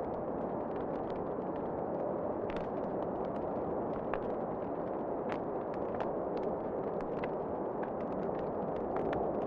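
Fireplace fire crackling, with scattered sharp pops at irregular intervals over a steady rushing background of wind.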